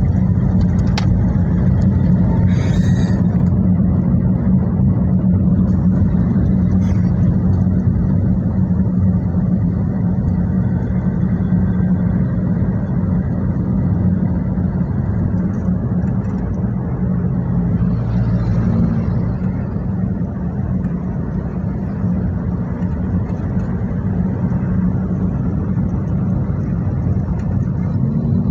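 Sports car engine running steadily, a low, even engine note with no revving.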